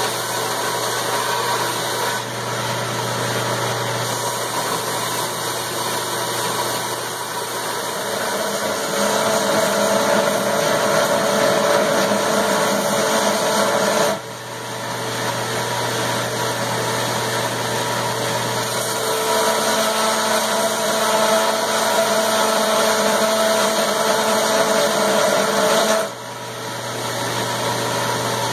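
Belt grinder running with an 80-grit belt while a steel eye punch is rough-ground to a blunt point. The grinding grows louder in two long stretches as the steel is pressed to the belt, and the sound drops sharply for a moment twice.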